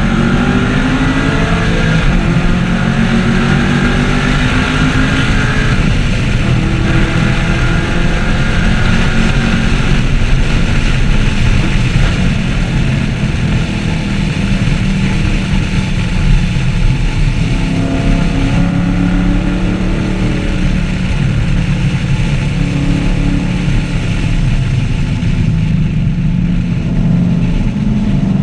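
2014 Camaro 1LE's 6.2-litre V8 engine driven hard, its pitch rising and falling repeatedly with throttle and gear changes.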